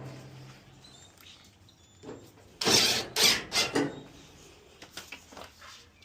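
Dryer parts being handled and fitted back in place during reassembly: a short run of about four scraping knocks about three seconds in.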